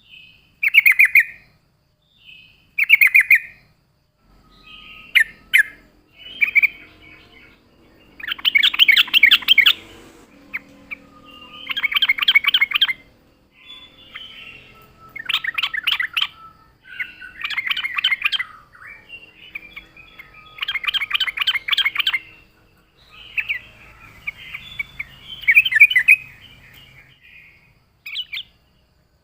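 Yellow-vented bulbul (trucuk) calling in repeated bursts of fast, bubbly chattering notes, each burst about one to two seconds long, with short pauses between them.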